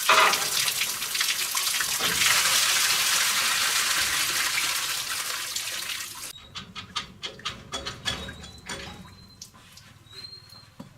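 A steady hiss of running water spraying, as in washing parts, cuts off suddenly about six seconds in. Scattered light clicks and knocks of parts being handled follow.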